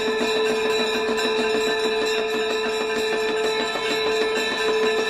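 Bells ringing fast and without a break for the Ganga Aarti: rapid metallic strikes over a steady ringing tone.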